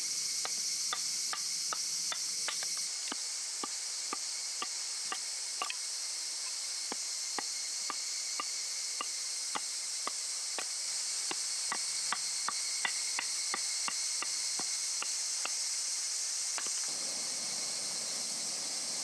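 Steady high-pitched chorus of summer insects, with a run of irregular sharp clicks, two or three a second, that stops about three seconds before the end.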